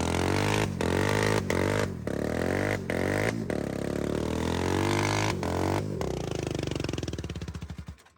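Dirt bike engine running loud and revving up and down, with short breaks in the sound, then slowing to separate pulses and cutting out near the end.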